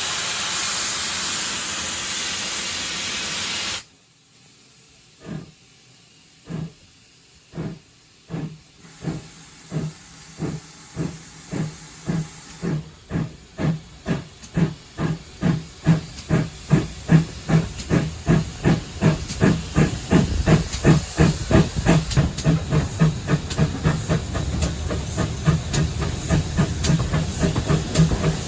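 Steam locomotive: a loud, steady hiss of steam cuts off suddenly about four seconds in. The locomotive then pulls away, its exhaust beats starting slow and quickening steadily into a fast, louder rhythm of chuffs.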